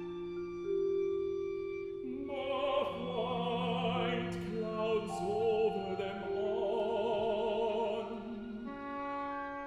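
Classical chamber music from a contemporary art song. Held bowed-string notes are joined about two seconds in by a line with wide vibrato, which drops out near the end, leaving the held notes.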